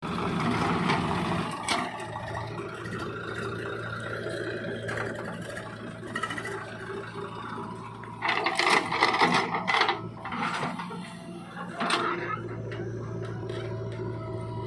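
Diesel engine of heavy machinery running steadily with a rhythmic mechanical clatter, with a louder, noisier stretch of working sound about eight to ten seconds in.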